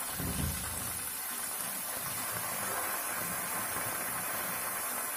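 Diced potatoes and tomatoes sizzling in ghee in a kadai, with a steady hiss, while a wooden spatula stirs them.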